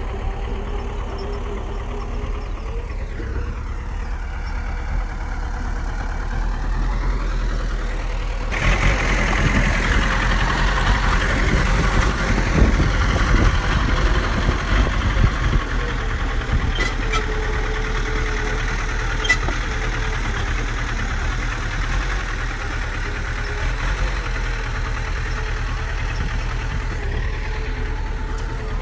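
Bulldozer's diesel engine running steadily. About eight seconds in it gets louder and rougher for several seconds, then settles back to a steady run.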